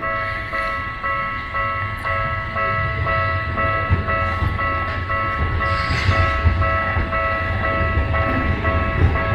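Japanese level-crossing warning bell ringing in a steady, high-pitched repeating clang, about two strokes a second, over the low rumble of a Tokyu Setagaya Line tram.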